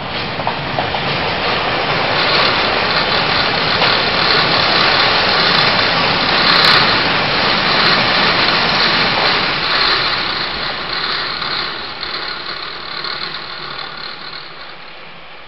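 Painted TEMU2000 Puyuma tilting electric train passing, its wheels rumbling on the rails. The sound swells to a peak about halfway and then fades.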